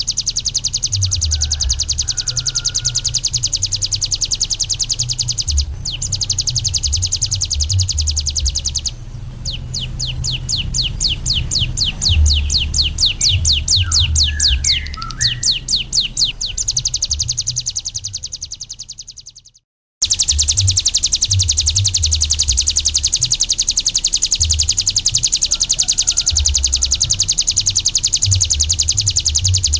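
Ciblek gunung, a prinia, singing a loud, fast, high-pitched trill. Partway through it changes to a slower run of sharp repeated notes, about six a second. The song fades and cuts out briefly about two-thirds in, then the fast trill starts again abruptly.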